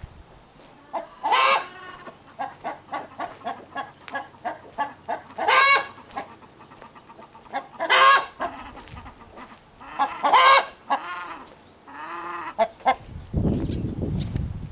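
A rooster clucking in a steady run of short clucks, about three a second, broken four times by a loud drawn-out squawk: the agitated cackle a chicken gives when upset about something. A low rustling rumble comes in near the end.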